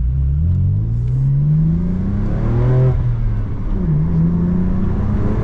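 BMW M4 F82's twin-turbo straight-six accelerating through an AWE SwitchPath exhaust. The engine note climbs for about three seconds, drops with a gear change, then climbs again.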